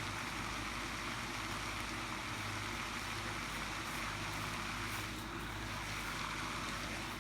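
Steady outdoor background noise: an even hiss with a low hum beneath it, with no distinct events.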